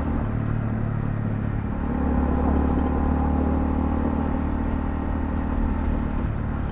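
Honda CL250's single-cylinder engine running under way, with road and wind noise. Its note drops about a third of a second in and climbs louder about two seconds in as the bike accelerates.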